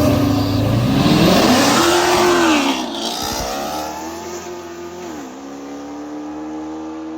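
Cars launching off the line in a street race and accelerating hard, engine revs climbing. The pitch drops and climbs again at gear changes, once about two and a half seconds in and again near five seconds.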